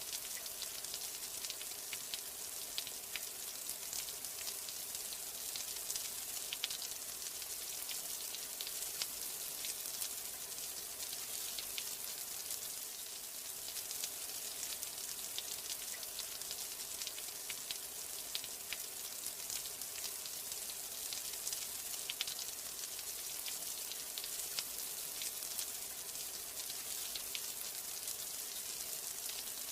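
Steady rain falling, an even hiss with a dense crackle of individual drops striking a surface.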